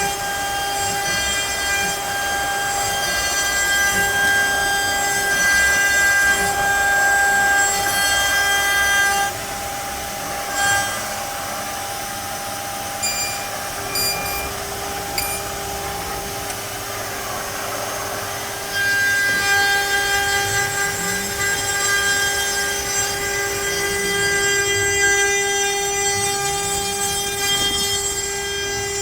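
CNC router spindle whining steadily with several even tones as the bit cuts pine. From about nine seconds in the whine drops and the sound goes quieter for about ten seconds, then comes back at full strength.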